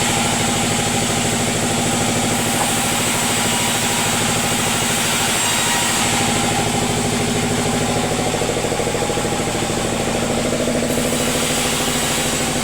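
Sawmill machinery running steadily: an engine at an even, unchanging pitch.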